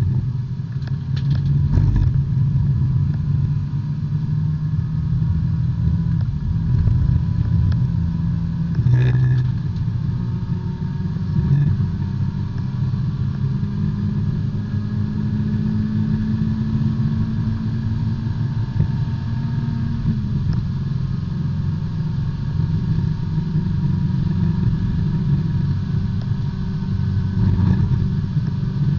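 B-Spec race car's four-cylinder engine running under racing load, heard from inside the car, its pitch climbing and dropping with throttle and gear changes. There are brief knocks about two seconds in and again about nine seconds in.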